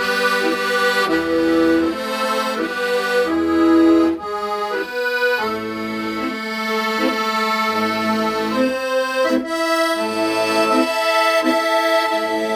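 Accordion playing a melody over sustained chords, with low bass notes sounding underneath at intervals.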